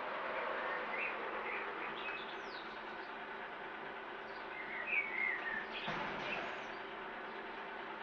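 Small songbirds giving short, scattered chirps and calls, one a quick downward whistle, with a cluster of chirps about five seconds in, over a steady background hiss. A single sharp click comes just before six seconds.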